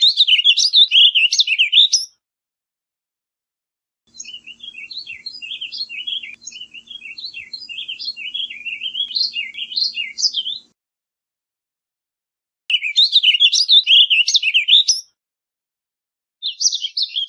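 Warbling vireo singing its rapid, rambling warble in separate phrases. There is a loud phrase of about two seconds, then a longer, quieter one of about six seconds, then another two-second phrase, and a last one begins near the end, with short silent gaps between them.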